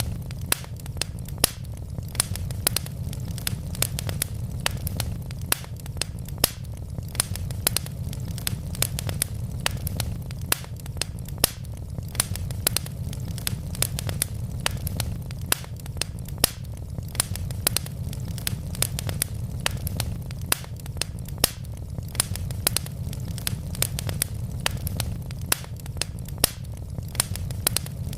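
Wood logs burning in a fireplace, crackling with many sharp pops and snaps each second over a steady low rumble.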